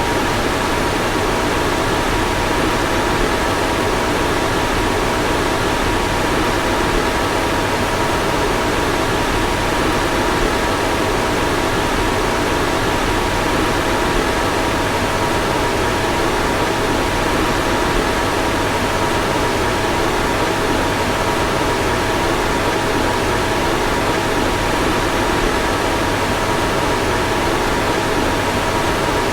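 Car fan running steadily: a constant airy rush with a faint steady whine and a low hum underneath, unchanging throughout.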